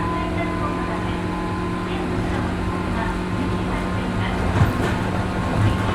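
Cabin running sound of a 103 series 1500 subseries electric commuter train under way: a steady rumble with a constant electrical hum, and two short wheel knocks over rail joints near the end.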